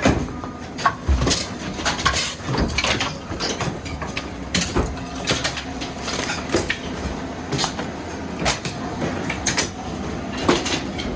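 Demolition debris knocking and clattering irregularly, several sharp hits a second, over the steady hum of a running machine engine such as a skid loader.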